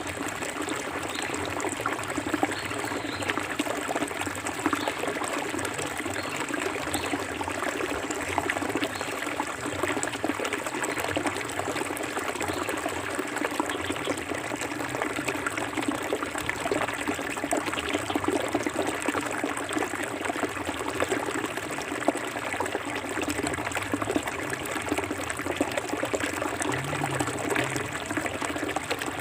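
Forest river water flowing steadily: a continuous, even rush of running water.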